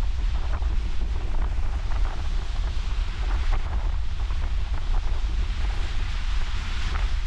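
Wind buffeting the microphone with a heavy low rumble, over the steady rush of ocean surf.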